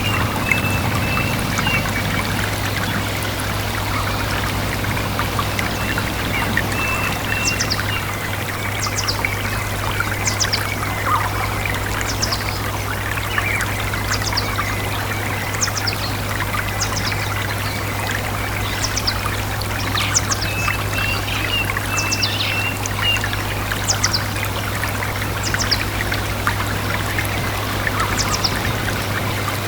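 A stream running steadily, trickling and splashing, with a bird repeating short, high, downward-sliding chirps about once a second and now and then a few short whistled notes.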